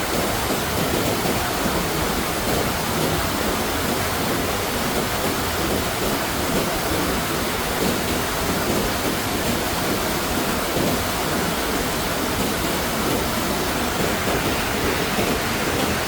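Loud, steady noise of heavy water, which stops suddenly at the end.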